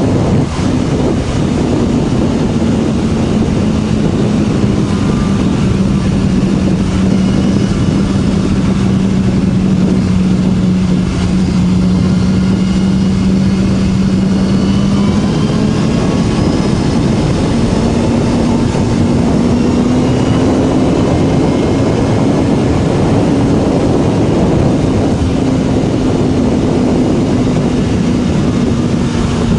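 BMW S1000RR inline-four with an Akrapovič slip-on exhaust, running steadily under load while riding. The engine note sinks slowly for about fifteen seconds, then climbs back up, over a constant rush of wind and road noise.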